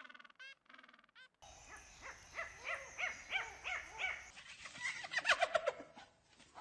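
Animal calls from three recordings cut together: a run of short honking calls, then from about a second and a half in a string of calls about three a second, then from about four seconds in a faster run of calls.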